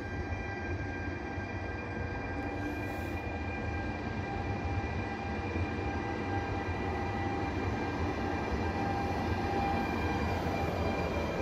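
E464 electric locomotive hauling a double-deck regional train along the station track: a steady rumble with several steady high whining tones, slowly getting louder as it comes closer.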